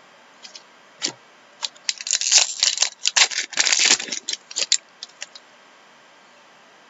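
Hockey trading cards being handled and shuffled: a run of crisp clicks and crinkly rustling, densest from about two to four seconds in, then stopping.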